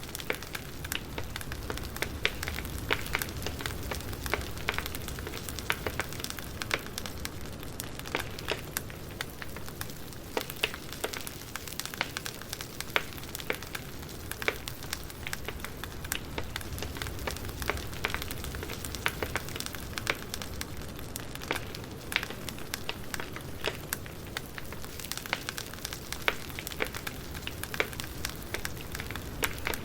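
Wood fire burning, with steady crackling and irregular sharp pops and snaps.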